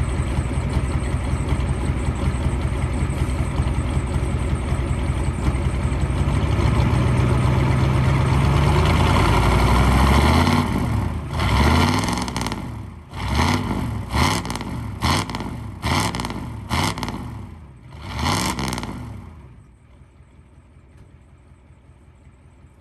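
Built 1994 Ford 7.3 IDI V8 diesel on a cold engine, idling, then held at higher revs for a few seconds. It is then revved in a string of quick blips, each rising and falling. The engine sound drops away to a faint hum near the end.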